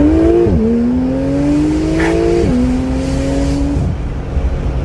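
Porsche 991.2 GT flat-six through a Kline valved exhaust with stainless equal-length headers, decat pipes and an Inconel muffler, heard from inside the cabin, accelerating hard. The note climbs, drops sharply with an upshift about half a second in, climbs again to a second upshift about two and a half seconds in, then eases off near the end.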